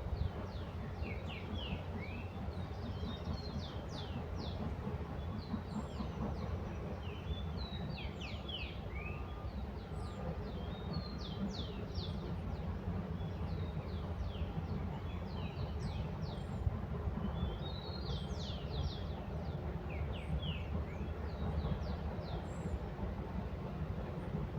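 Small birds chirping and twittering, with many short, quick high notes throughout, over a steady low rumble.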